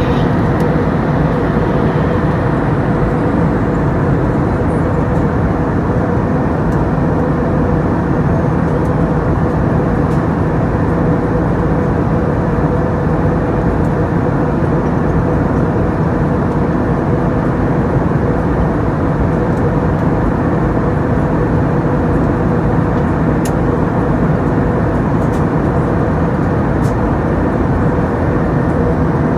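Airbus A321 cabin noise in flight: a steady drone of engines and airflow with a constant low hum running under it.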